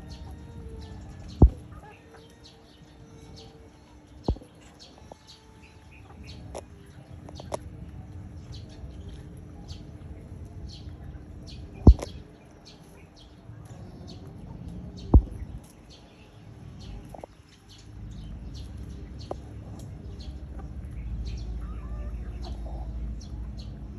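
Chickens clucking, with short high chirps throughout and four sharp clicks or knocks at irregular intervals.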